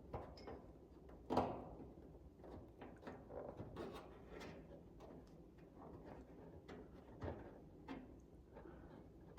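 Faint, scattered clicks and knocks of hand tools and metal fasteners being handled while bolting on a car's front spoiler, with one sharper knock about a second and a half in.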